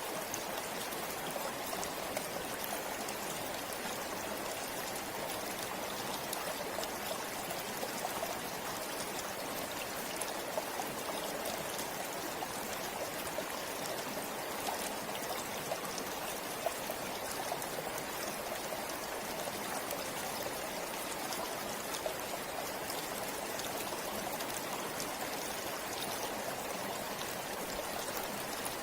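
Shallow river flowing steadily over rocks, a continuous rushing and babbling with small splashes and trickles.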